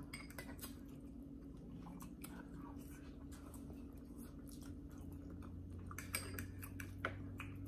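Quiet chewing and mouth sounds of people eating a breakfast of sausage and eggs, with scattered small clicks, over a faint steady hum.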